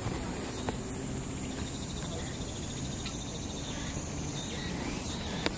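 Insects trilling in woodland: a steady high-pitched drone, with a faint, rapidly pulsing call for a second or so near the middle. A couple of short clicks.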